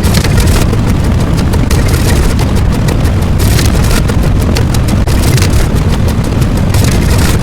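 Loud, continuous rumbling noise with a heavy bass and no clear pitch or breaks.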